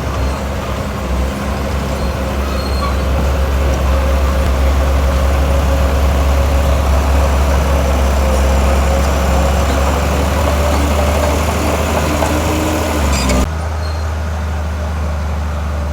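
Heavy diesel earthmoving machinery running steadily with a deep engine drone. About thirteen seconds in, the sound changes abruptly and the higher hiss drops away.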